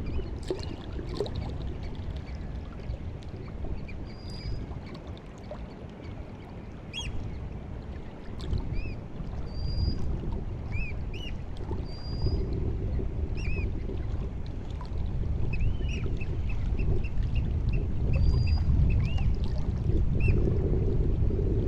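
White Sea water lapping and washing at the shore on a rising tide, getting louder in the second half, with birds calling over it in many short, high chirps and whistles.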